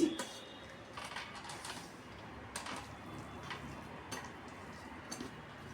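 Faint scattered clicks and taps of a hand mixing rice with fried fenugreek greens on a plate and eating, with small plate and dish contacts.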